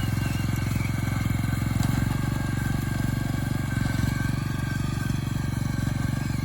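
Small engine of a walk-behind rice binder running steadily as it cuts rice and ties the stalks into bundles.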